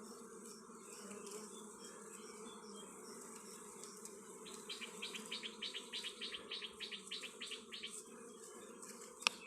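Dwarf honeybees buzzing around their comb, a faint steady hum. From about four and a half seconds in, a rapid run of high chirps, about six a second, lasts some three seconds, and a single sharp click comes near the end.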